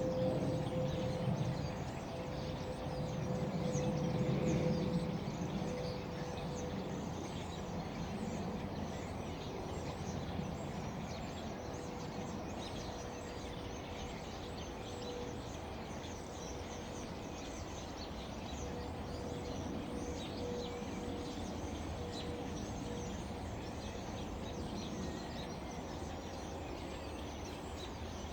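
Many birds singing and chirping over the steady drone of an airplane overhead, whose low rumble is loudest in the first five seconds.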